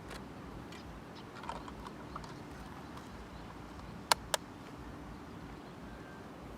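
Two sharp clicks about a quarter second apart, roughly four seconds in, over a steady low rumble of outdoor background noise with a few faint ticks.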